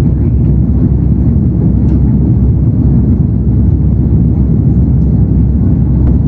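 Airbus A330-300's Pratt & Whitney PW4168A jet engines at climb power after takeoff: a loud, steady low roar.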